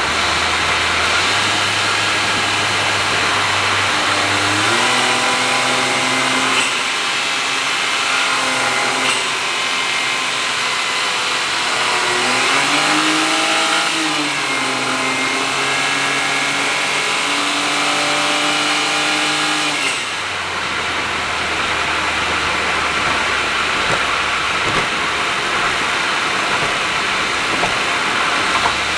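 Honda S660's small turbocharged three-cylinder engine heard through an HKS aftermarket exhaust while the car drives at speed. It holds a steady drone, climbs in pitch about four seconds in, rises and falls again around the middle, then drops back to a lower, steady drone about twenty seconds in.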